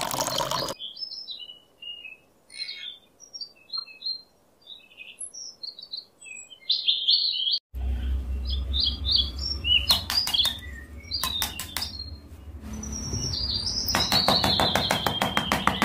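Small birds chirping in short, scattered calls, with a brief pour of water that ends just under a second in. From about eight seconds in a low hum runs under the chirps, with bursts of fast clicking, and dense rapid tapping near the end.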